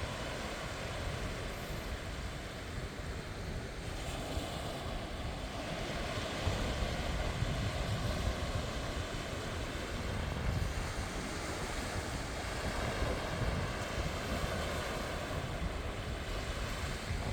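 Sea waves washing onto a beach, a steady surf with swells that grow stronger after about six seconds, with wind rumbling on the microphone.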